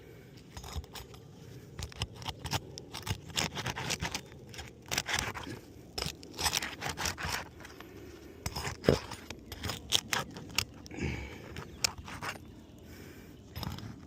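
Asphalt roof shingles being scraped and handled during a shingle repair: irregular scraping strokes mixed with sharp clicks and cracks.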